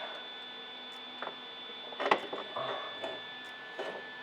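A few light metallic clicks and knocks as a steel exhaust elbow is worked off a pipe joint by hand, the sharpest about two seconds in, over a faint steady hum.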